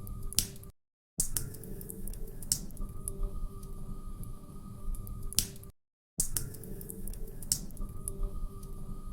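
Log fire crackling in a fireplace: sharp pops and snaps over a low rumble of the flames. The same five-second stretch of crackling plays over and over, broken by a brief cut to dead silence just under a second in and again near the middle.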